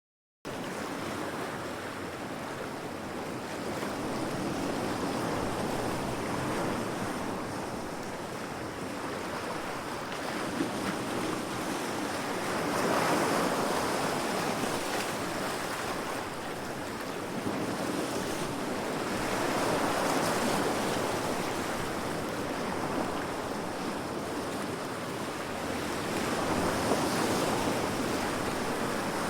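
Heavy sea waves breaking against rocks: a continuous rush of surf that starts abruptly just after the beginning and swells with each wave about every seven seconds.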